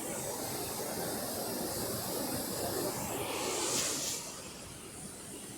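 Steady rushing noise of a waterfall, with a brief louder hiss that swells and fades about three and a half seconds in.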